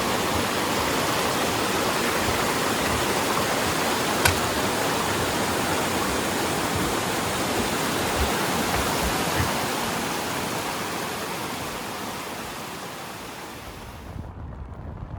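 Aber Falls, a 37-metre waterfall, pouring with a steady, loud rush of falling water. There is a single sharp click about four seconds in, and the rush fades down over the last few seconds.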